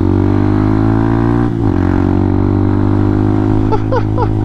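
Hawk 250 dual-sport motorcycle's single-cylinder engine running at a steady pitch, with a brief dip in the note about a second and a half in.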